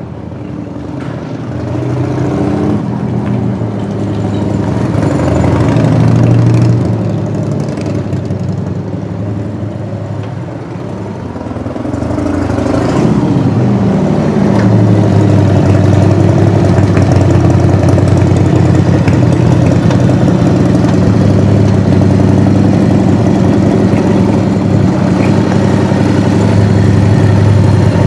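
Harley-Davidson Evolution 1340 cc air-cooled V-twin on a 1990 FXSTS Springer Softail running. It gets louder over the first six seconds, eases off, then rises in pitch again around twelve to fifteen seconds and keeps running steadily and loud.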